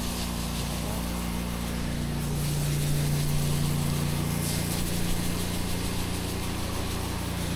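Pressure washer's gas engine running steadily with an even low hum.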